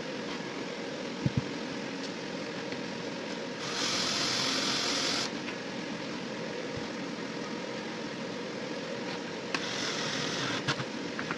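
A steady mechanical hum with two bursts of hissing, each lasting about a second and a half, and a few short knocks.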